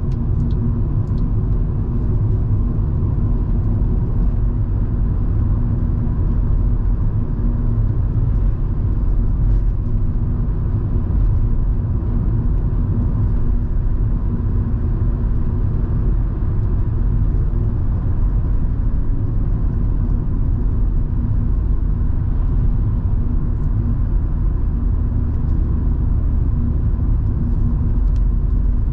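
Volvo V70 2.5T's turbocharged five-cylinder engine and tyre noise while cruising: a steady low rumble with an even engine hum.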